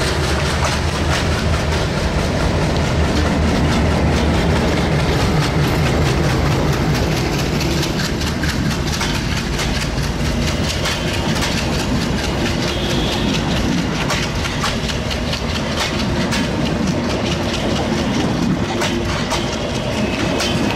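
Diesel locomotive hauling a passenger train slowly past: a steady low engine rumble, strongest in the first several seconds. About eight seconds in, the passing coaches' wheels begin clicking over the rail joints, coming quicker toward the end.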